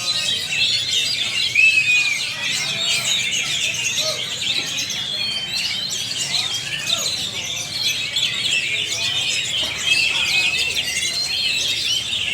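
Many caged oriental magpie-robins (kacer) singing at once in a contest round: a dense, unbroken chorus of overlapping chirps, whistles and trills.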